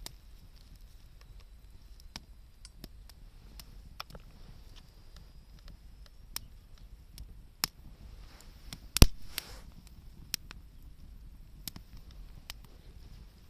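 Wood campfire crackling: scattered sharp pops and ticks at irregular intervals over a low steady rustle, with one much louder pop about nine seconds in.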